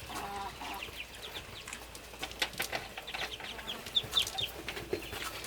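Farmyard fowl calling: a clucking call at the start, then short high peeps mixed with a run of sharp taps or clicks from about two seconds in.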